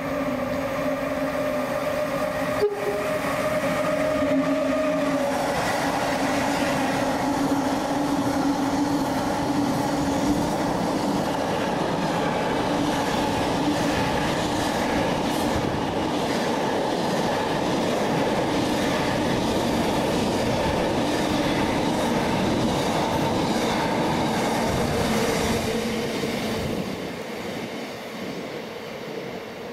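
A train passing through the station. A steady pitched tone sounds for the first few seconds, then gives way to about twenty seconds of loud rushing and clattering as the train goes by, dying away near the end.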